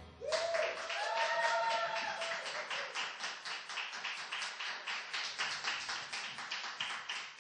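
A small audience clapping just after a song ends, with one voice giving a rising whoop in the first couple of seconds. The clapping thins out toward the end.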